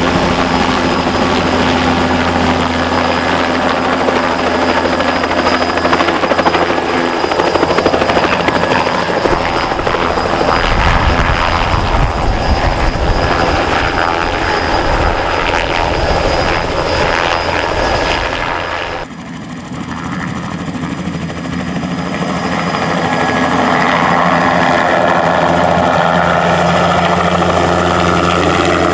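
Bell 206B JetRanger helicopter flying, its turbine engine and rotor running steadily. About two-thirds of the way through the sound drops off suddenly, then swells back up over a few seconds.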